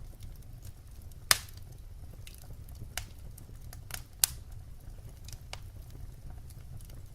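Log fire crackling over a low steady rumble, with scattered sharp pops; the loudest pop comes a little over a second in, another about four seconds in.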